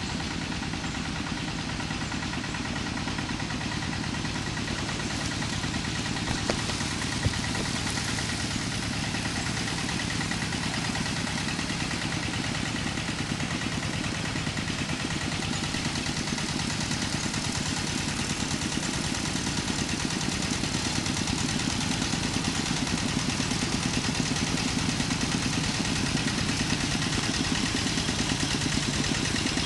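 An engine running steadily, slowly growing louder toward the end, with a couple of faint clicks about seven seconds in.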